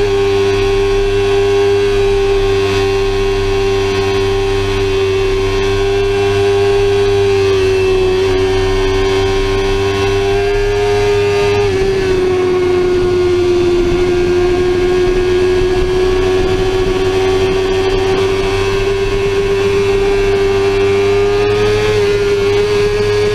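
Sportbike engine running at high, fairly steady revs, with a brief drop in pitch about halfway through and a small rise near the end, over low wind noise.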